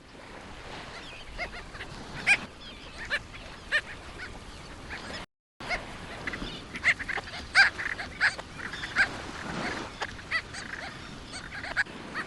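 A seabird colony of terns calling: many short, harsh calls in quick irregular succession over a steady background hiss. The sound drops out briefly a little after five seconds in.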